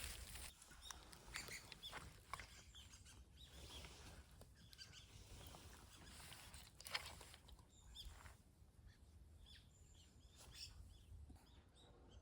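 Faint chirps of small birds in otherwise near-quiet surroundings, with a few sharp clicks or rustles, the loudest about seven seconds in.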